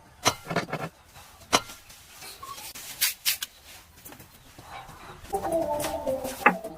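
Scattered sharp knocks and taps, then a short, wavering animal-like call about five seconds in.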